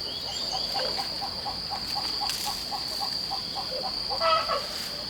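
A chicken clucking in a quick, even run of about four or five notes a second, with a louder call near the end. Under it runs a steady high insect drone, and a few short bird chirps come in the first second.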